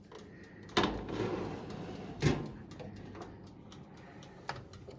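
Two sharp knocks about a second and a half apart, with light clicking and rustling between them: household handling noise such as objects being set down or a door or drawer moving.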